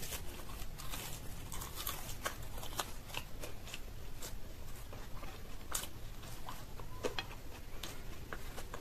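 Close-miked chewing of a fried green-pea kochuri, many small wet mouth clicks and light crunches, with fingers tearing at the fried bread on the plate near the end.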